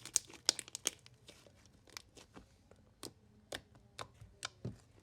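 Hands kneading and stretching a sticky shaving-cream marshmallow slime: a run of sharp clicking pops, close together in the first second, then about two a second.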